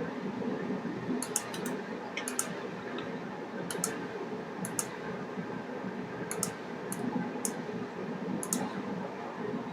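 Scattered small, sharp clicks, many in quick pairs, about fifteen in all, over a steady low background noise.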